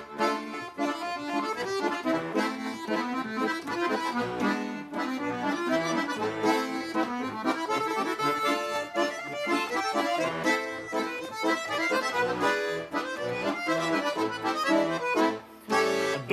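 Bayan (Russian chromatic button accordion) playing the instrumental opening of a chastushka folk tune, chords and melody with repeated short notes.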